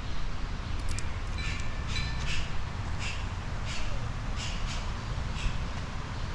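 City street ambience: a steady low traffic rumble, with a regular series of short, high-pitched sounds about every 0.7 seconds through the middle.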